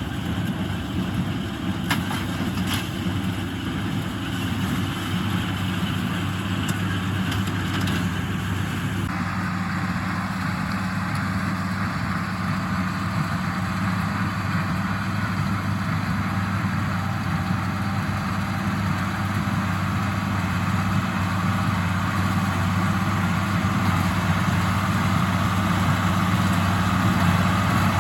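1977 International Harvester 886 tractor's six-cylinder diesel engine running steadily under load while pulling a working small-square hay baler. A few sharp clicks come in the first eight seconds, and the machinery noise changes character about nine seconds in.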